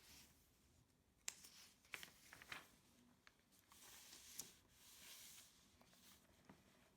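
Faint paper handling: soft rustling of pages with a few small clicks and taps, as when a book's pages are moved or turned.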